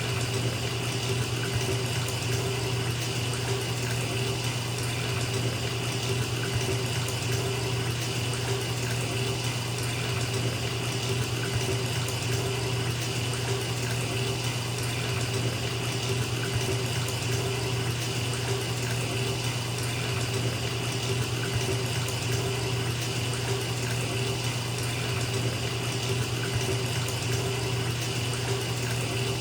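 Bathtub faucet running steadily, water pouring into a filling tub with an even, unbroken rush.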